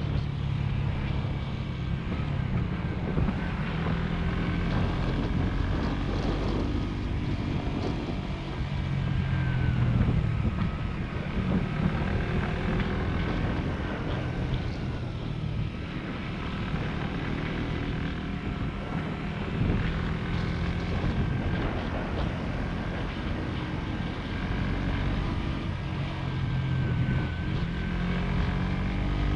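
Motorcycle engine running while riding, its pitch rising and falling with the throttle, with wind rushing over the microphone.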